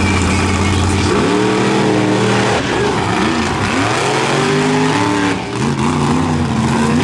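Monster truck V8 engines revving hard under racing throttle. The pitch holds for about a second, then climbs, drops and climbs again several times as the throttle is worked on and off.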